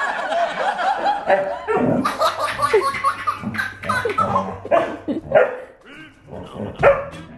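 Dog barking repeatedly in short separate barks, after a second or so of laughter.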